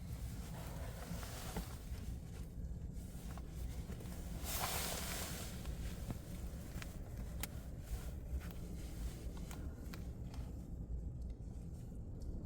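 Blizzard wind buffeting the microphone as a steady low rumble, with scattered small clicks and a brief rushing hiss about five seconds in.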